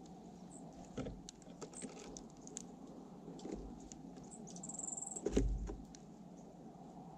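Small birds at a seed feeder: scattered light taps and clicks of pecking and shuffling on the feeder, a brief high-pitched chirp about five seconds in, then a low thump just after, the loudest sound.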